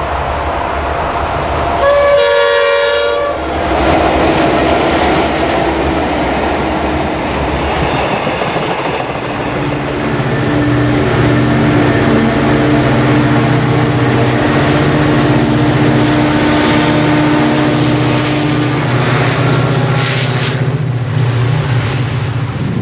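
A diesel locomotive's multi-note horn sounds one blast of about a second and a half, about two seconds in. Later a diesel-hauled freight train runs past, its engine a steady drone over the wagons rolling by.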